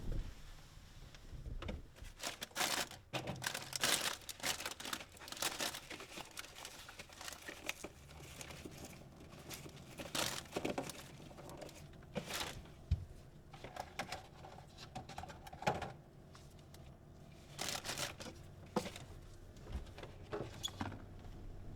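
Packaging being handled, crinkling and rustling in irregular bursts with a few sharp clicks.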